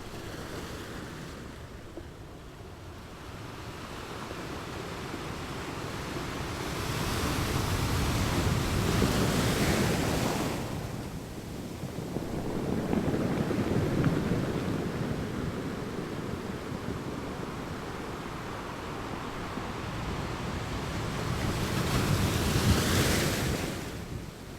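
Ocean surf washing onto a beach: three surges of waves, each building over a few seconds and falling away, the first and last the loudest.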